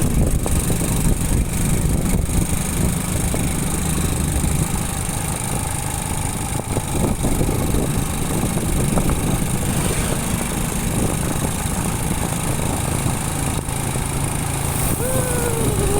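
Motorcycle engine running at low revs under steady road and traffic noise. Near the end comes a short falling tone.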